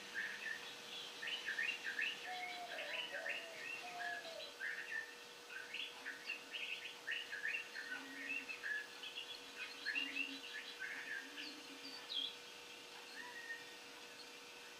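A small bird chirping and twittering in quick runs of short notes, over a faint steady hum.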